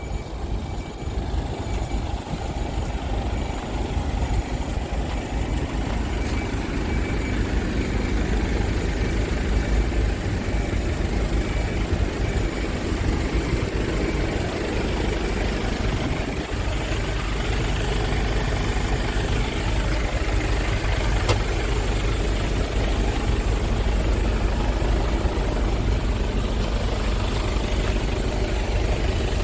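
Scania S tractor unit's engine idling steadily with a low rumble.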